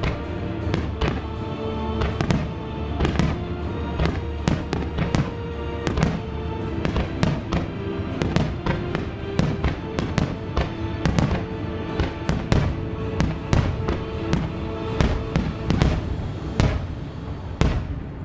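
Fireworks display: aerial shells bursting in quick succession, two or three a second, over music played through loudspeakers. The bursts let up near the end.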